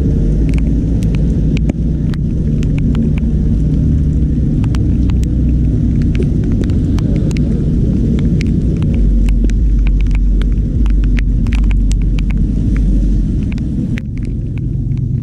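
Muffled low rumble of car engines in heavy rain, heard through a waterproof camera housing, with many irregular sharp taps of raindrops striking the housing.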